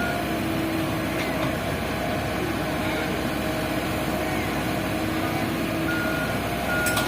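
Truck engine running steadily, with a held droning tone. Near the end the reversing beeper sounds: short beeps of one pitch, less than a second apart.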